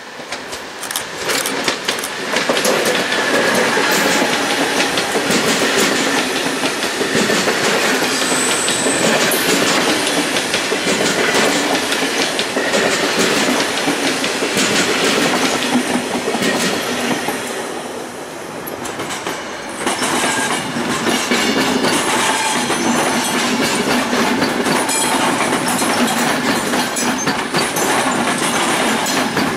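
Electric passenger trains passing close by: an SNCB class 18 electric locomotive hauling double-deck coaches rolls past with a steady rumble and wheels clicking over rail joints. The sound eases briefly about two-thirds of the way in, then an AM 86 electric multiple unit passes with the same rolling clatter.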